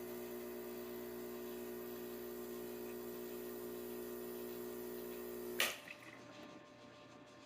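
Gaggia Classic's vibratory pump buzzing steadily while pulling an espresso shot, then the brew is switched off: a sharp click and a short hiss from the three-way valve venting, after which the pump is silent.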